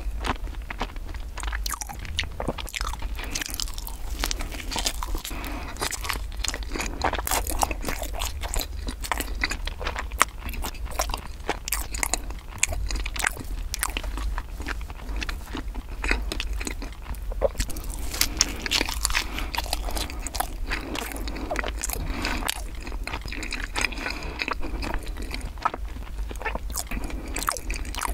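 Close-miked ASMR chewing and biting of a flaky bread pastry: a dense run of small crackles and wet mouth sounds, over a steady low hum.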